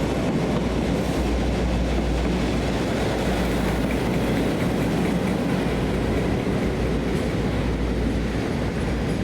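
A train running past on the track: a steady, loud rumble of wheels on rail.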